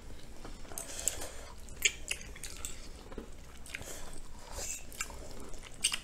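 Close-miked chewing and mouth sounds of people eating saucy oxtails, with scattered short smacks and clicks and an occasional fork against a plate.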